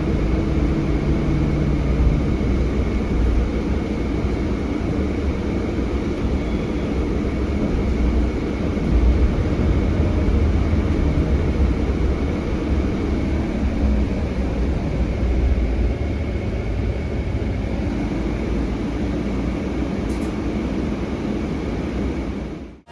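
Scania K320HB bus heard from on board: its Scania DC9 five-cylinder diesel running with a steady low rumble and a faint steady high whine. It fades out at the very end.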